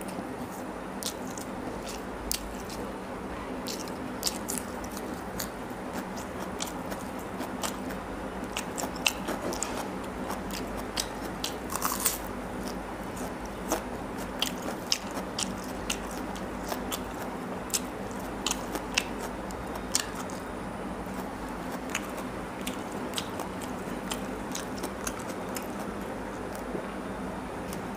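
Close-miked eating sounds: wet chewing, biting and lip smacks as a man eats rice and curry with his fingers, with sharp clicks and smacks scattered throughout over a faint steady hum.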